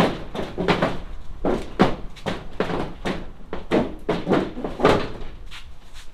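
A run of repeated knocks and bangs, about two or three a second, with a short break just over a second in, dying away near the end.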